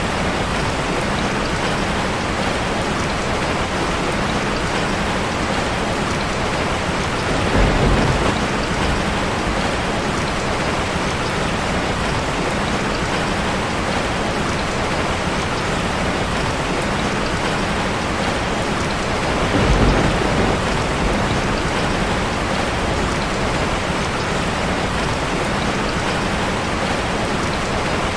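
Steady rain drumming on a metal roof, an even hiss of many drops. Twice, about 8 seconds in and again about 20 seconds in, a brief low rumble swells up over it.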